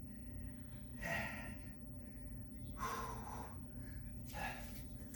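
A person breathing hard and audibly, winded from a sprint of six-count exercise reps, with heavy breaths about every one and a half seconds.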